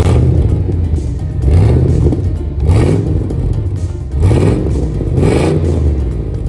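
1999 Chevrolet K1500 Suburban's engine revved up four times in quick succession, over background music.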